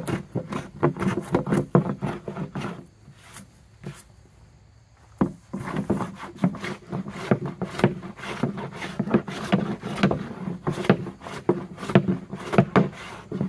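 Hand plane taking quick, short strokes across a wooden board, a few a second, with a sharp blade cleaning up tear-out. The strokes pause for about two seconds a few seconds in, then resume.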